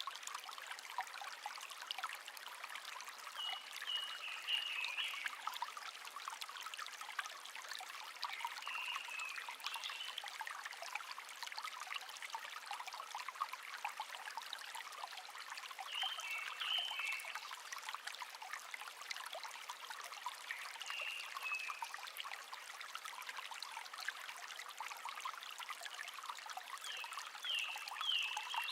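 Shallow brook babbling and trickling steadily, with a wild songbird giving five short, high chirping phrases spread through.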